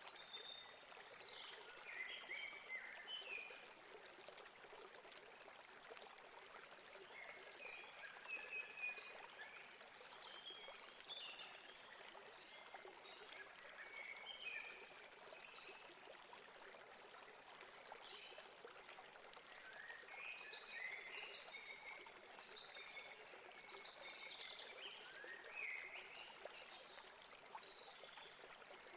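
Flowing river water, a steady gentle rush, with small birds chirping in short phrases on and off throughout.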